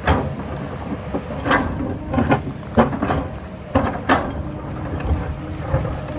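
Diesel earthmoving machine running steadily, with about six sharp metallic clanks and scrapes in the first four and a half seconds, typical of a digging bucket working against rock and soil.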